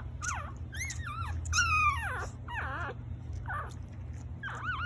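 Newborn Chiweenie-Labradoodle cross puppies whimpering and squeaking: a string of short, high cries that waver up and down in pitch, the loudest about a second and a half in.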